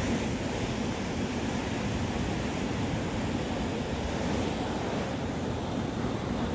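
Atlantic surf washing onto a sandy beach: a steady rushing noise of waves.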